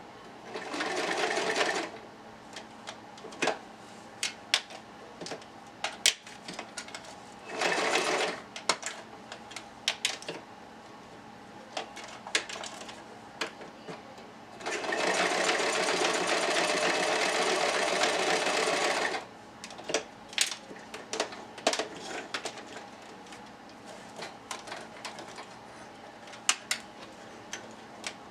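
Sewing machine stitching in three short runs: about a second and a half near the start, about a second some eight seconds in, and a longer run of about four and a half seconds midway. Scattered clicks and taps between the runs.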